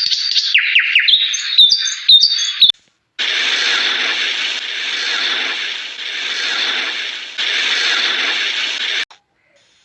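A bird chirping and calling in quick high glides for under three seconds. After a brief gap, a loud steady hissing noise takes over for about six seconds, swelling and fading in waves, then stops suddenly.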